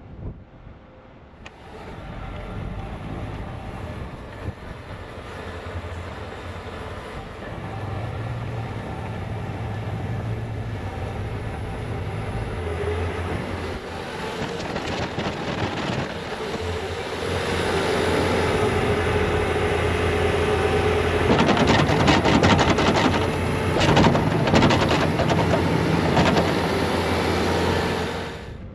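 Bobcat T66 compact track loader running with its snowblower attachment working, starting about a second and a half in and growing louder over the first half. A rapid clatter rides on the machine noise for several seconds near the end, and the sound drops off abruptly just before the end.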